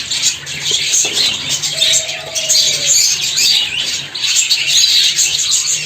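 Zebra finches in an aviary chattering: many overlapping chirps and calls at once, without pause.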